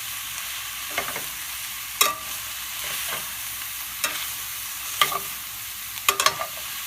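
Ground chicken and vegetables sizzling steadily in a skillet over medium heat, with a cooking utensil scraping and knocking against the pan about once a second as the mixture is stirred, several quick knocks together near the end.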